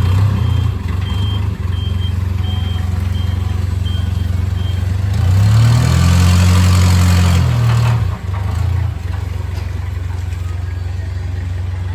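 Vehicle engine running steadily, with a row of six short high beeps in the first five seconds. About five seconds in the engine revs up, louder with a rising then falling pitch, and drops back to a steady run after about two and a half seconds.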